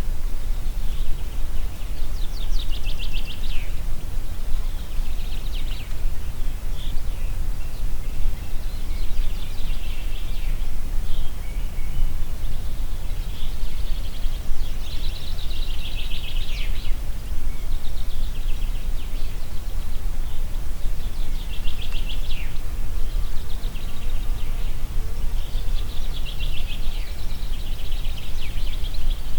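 Wind blowing through trees with a steady low rumble, while songbirds sing short trilled phrases every couple of seconds.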